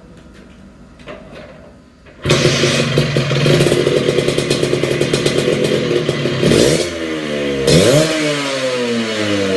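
Vespa smallframe single-cylinder two-stroke scooter engine running through a custom expansion exhaust: after a couple of seconds of faint clicks it bursts into loud running, is blipped up sharply twice, and each time the revs fall away again.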